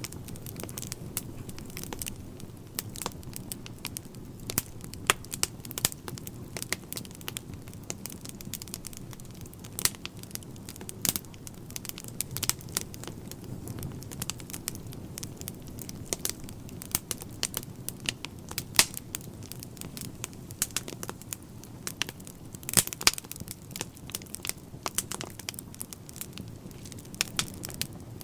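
Wood fire burning in a fireplace, the logs crackling with irregular sharp pops and snaps over a low steady rumble.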